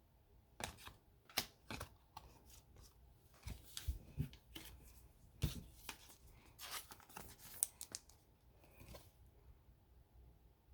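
Hockey trading cards and foil pack wrappers being handled: faint, scattered soft clicks, slides and rustles, a couple of them sharper, at irregular moments.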